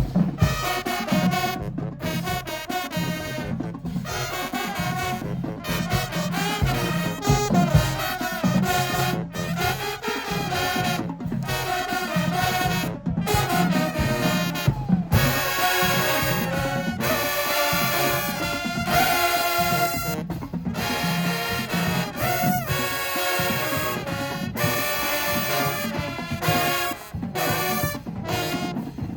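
High school marching band playing, with brass and drums. Short breaks come every two seconds or so in the first half, and the playing grows fuller and brighter about halfway through.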